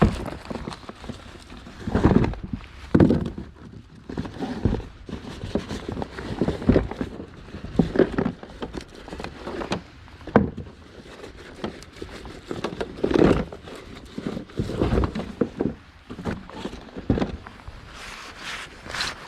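Irregular footsteps with crunching thuds, about one every second, and some knocks mixed in.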